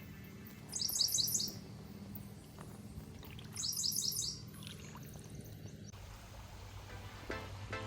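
A songbird singing a short, rapid phrase of repeated high notes, twice, about three seconds apart, over a steady low hum.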